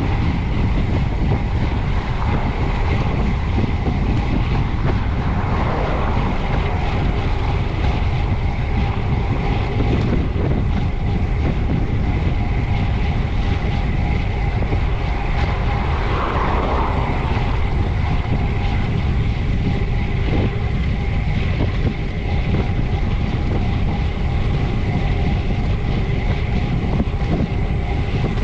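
Steady wind rush on the microphone, with tyre and road noise from a bicycle ridden hard on pavement.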